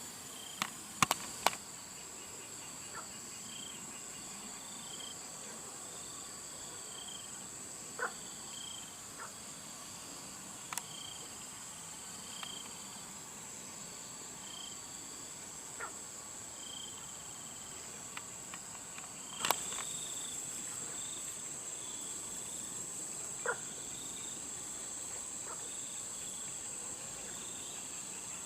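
Steady high-pitched chorus of crickets or other insects, with short repeated chirps over it. A few sharp knocks cut through it, the loudest about a second in and near 20 seconds.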